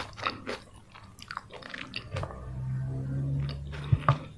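Close-miked chewing of crispy fried chicken, with crackly crunches and mouth clicks. About halfway through, a low steady hum runs for about two seconds, and two sharp loud clicks come near the end.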